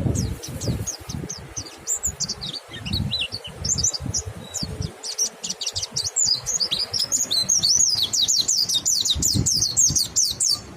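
Mountain white-eyes singing: rapid, high twittering song from more than one bird, getting denser and louder about halfway through. Irregular low thumps sound underneath.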